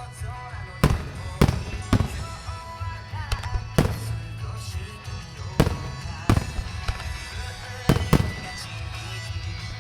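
Fireworks shells bursting in the sky: about eight sharp, deep bangs at uneven intervals, two of them close together near the end, with music playing behind them.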